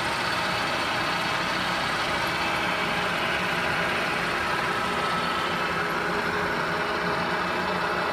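Summit engine lathe running under power: the steady hum of its 20 horsepower main drive motor and geared headstock, several constant tones at an even level with no change in speed.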